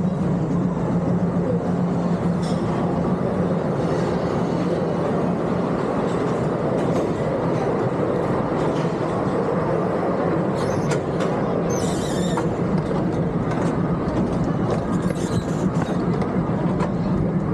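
Miniature park train running on its track: a steady low hum under continuous rattling and clacking from the wheels and cars, with a few brief high squeals about two-thirds of the way through.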